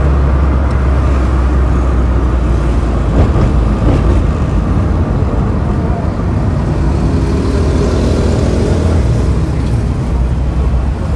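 Road traffic noise: a steady, loud rumble of vehicles with no single standout event.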